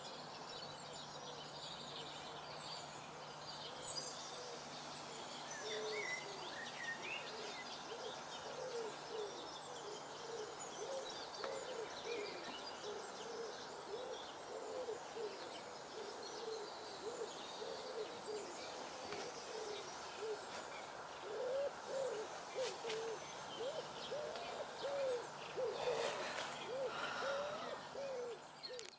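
Birds calling: one bird gives low hooting calls in many short, repeated notes, while smaller birds chirp higher up. A few light clicks come near the end.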